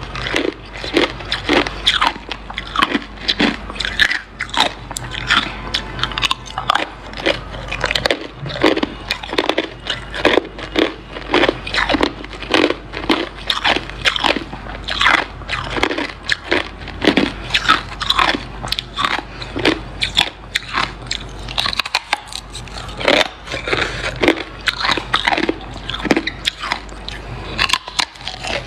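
Hard ice being bitten and chewed close to the microphone: rapid, irregular crunches, several a second, with a faint steady hum underneath.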